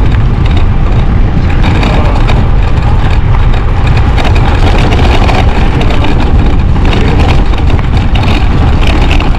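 Wind buffeting the microphone on a moving e-bike: a loud, steady rumble.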